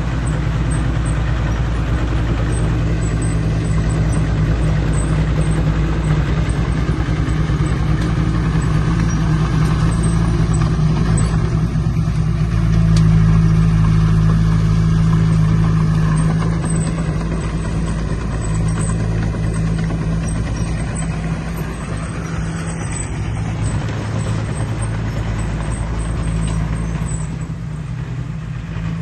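Heavy diesel engine of earthmoving machinery running steadily under load. It grows louder about halfway through and eases off near the end.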